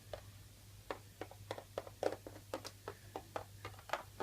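A quick, irregular run of soft taps or clicks, about a dozen over three seconds, starting about a second in, over a steady low electrical hum.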